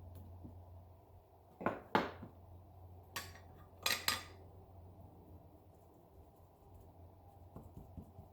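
Hard objects clinking and knocking together as they are handled, five short sharp clicks in two groups about two and four seconds in, over a faint steady low hum.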